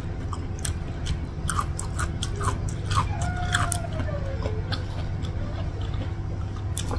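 Close-up chewing of raw vegetables and rice, with many small crisp crunches as raw okra is bitten and chewed.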